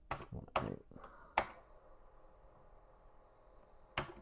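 A few keystrokes on a Commodore computer keyboard, the last a sharp click about a second and a half in as the load command is entered. A faint steady hum follows as the CBM 8050 floppy drive runs to load the file.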